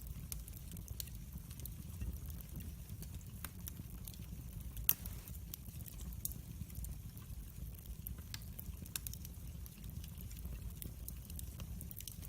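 Wood fire in a fireplace crackling: scattered sharp pops and ticks over a low steady rumble, with one louder pop about five seconds in.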